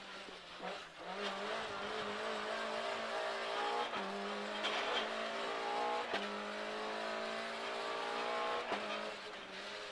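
Škoda 130 LR rally car's rear-mounted four-cylinder engine, heard from inside the cabin, accelerating hard through the gears. The pitch climbs in each gear and drops back at each upshift, three times.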